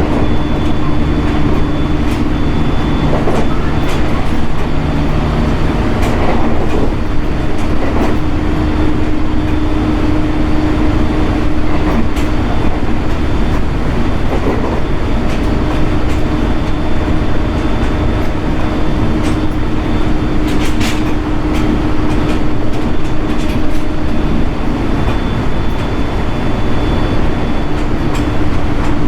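701 series electric train running at a steady speed: continuous rumble of wheels on rail with a steady whine, and now and then a short click from the rail joints.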